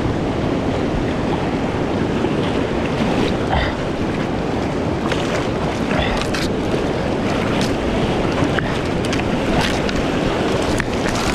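Steady rush of creek whitewater running through a rapid, with wind noise on the microphone and a few sharp ticks in the second half.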